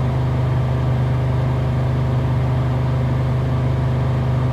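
1997 BMW 540i's V8 engine running steadily, fully warmed up, with an even hum and no change in revs.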